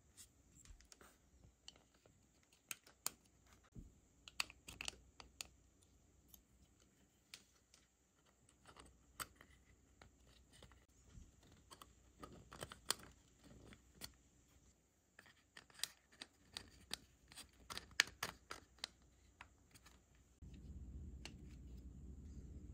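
Faint, irregular clicks, taps and light scrapes of plastic scale-model car parts being handled and pressed together by hand. A steady low hum comes in near the end.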